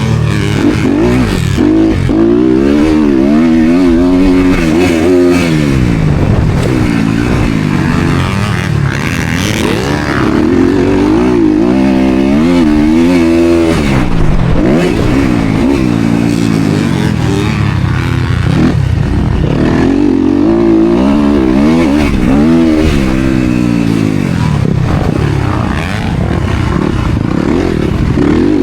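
Motocross dirt bike engine racing hard, its pitch repeatedly climbing under throttle and dropping off every few seconds as the rider accelerates, shifts and shuts off for corners.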